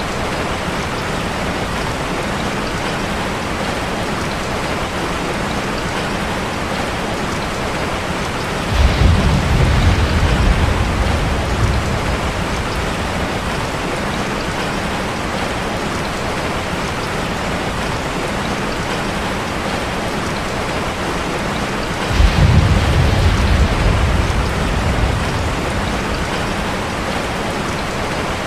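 Steady heavy rain on a metal roof, with two low rolls of thunder that break in suddenly about a third of the way in and again past the three-quarter mark, each fading out over a few seconds.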